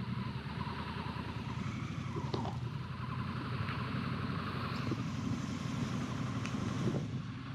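Honda Africa Twin CRF1100L's parallel-twin engine running steadily on the move.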